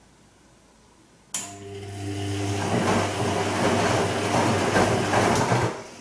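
Bosch Serie 2 VarioPerfect washing machine: a steady electric hum with a rushing noise starts suddenly about a second in. The rush grows louder, then dies away near the end, typical of the machine's drain pump or water inlet valve working.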